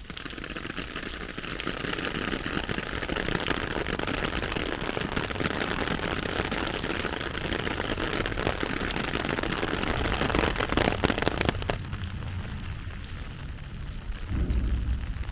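Heavy rain pattering densely. Its level drops abruptly about three-quarters of the way through, leaving lighter rain and a low rumble near the end.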